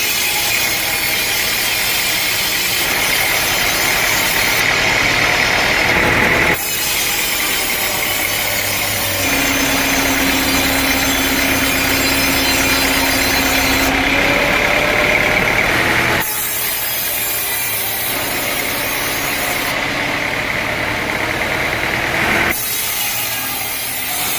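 Sawmill saw cutting through an old teak log, a loud continuous rasping that changes abruptly in tone three times.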